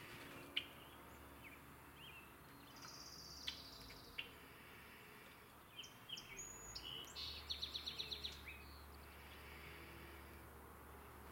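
Faint songbird calls and song: a few short high whistles, then about six seconds in a quick cluster of notes ending in a fast trill of about eight notes. A few sharp clicks come in the first half.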